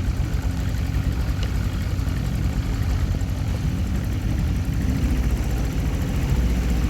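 Boat's outboard motor running steadily under way, a continuous low rumble.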